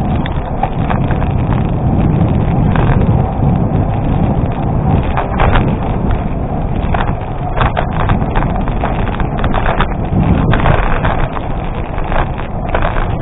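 Bicycle tyres rolling over a gravel road with wind rumbling on the microphone, and frequent short rattles and clicks from the bike going over the loose surface.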